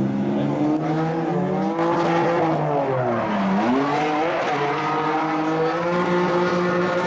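Drift car's engine revving hard at high rpm. About three and a half seconds in the revs drop sharply, then climb straight back up and hold high.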